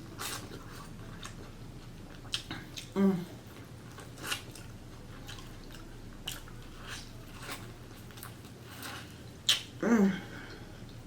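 Close-miked chewing and mouth smacks from eating a seafood boil of shrimp and corn in sauce: scattered wet clicks and smacks. Two brief hums from the eater, about three seconds in and near the end.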